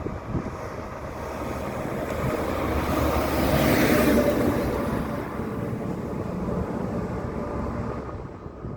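Airbus A330 airliner passing close overhead on its landing approach, its jet engine noise swelling to a peak about four seconds in and then fading away. Wind rumbles on the microphone underneath.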